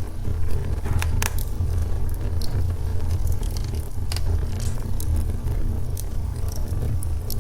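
Wood logs burning in a fireplace: a steady low rumble of the fire with irregular crackles and pops, two sharper pops about a second in.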